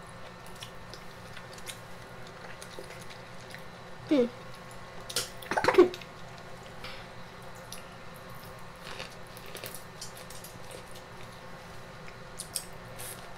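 A person chewing a mouthful of food close to the microphone, with soft wet mouth clicks and smacks. There are two short vocal sounds, about four and six seconds in.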